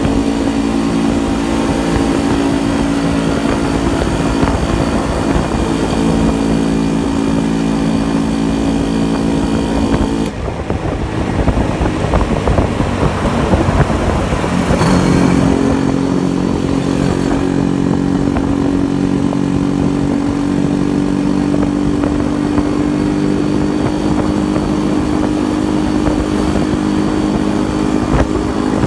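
Yezdi motorcycle engine running at road speed, heard from the rider's seat. About ten seconds in the steady engine note drops away for a few seconds, then comes back and slowly climbs in pitch as the bike picks up speed.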